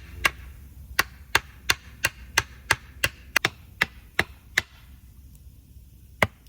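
Axe chopping into a branch of wood, about a dozen quick strikes at roughly three a second, then a pause and one more strike near the end.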